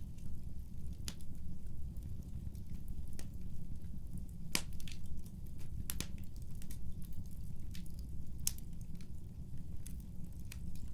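Wood fire burning in a fireplace: a steady low rumble of the flames with irregular sharp crackles and pops from the burning wood, the loudest pops about four and a half and six seconds in.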